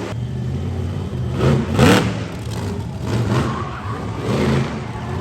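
Monster truck engine running and revving, loudest in a rising rev about two seconds in.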